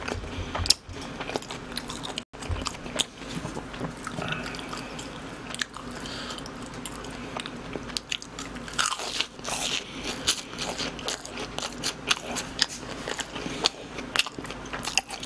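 A person biting into and chewing BHC cheese balls, fried dough balls with a crisp crust, with irregular crisp crunches.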